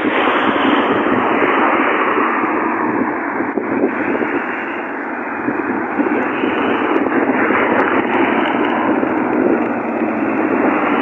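Steady noise of a car driving along the road, heard from inside the cabin.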